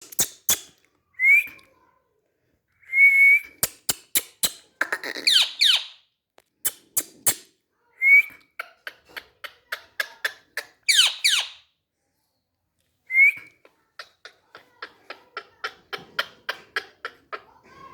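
Indian ringneck parrot making short whistles and falling chirps mixed with sharp clicks, then a fast run of clicks at about four a second in the latter half.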